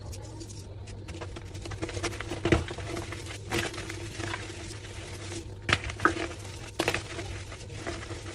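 Homemade gym chalk slabs being crushed: irregular crunches and cracks, with the sharpest about two and a half seconds in and two more near the six and seven second marks.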